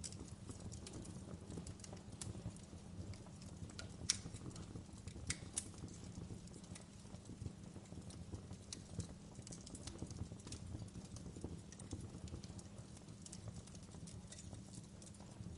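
Wood fire crackling in a fireplace: a steady low background of burning with small irregular pops and crackles, and a few sharper pops about four and five and a half seconds in.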